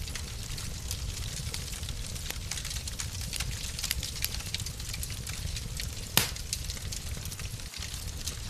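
Wood fire crackling in a fireplace: a steady low hiss and rumble dotted with quick, irregular snaps, and one louder pop about six seconds in.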